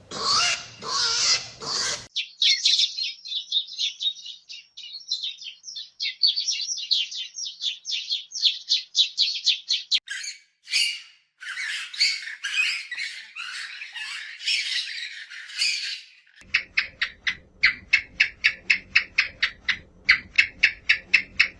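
Birds calling in a series of changing bursts: a long run of rapid high chirps, then louder squawks, then a steady string of short calls at about four a second.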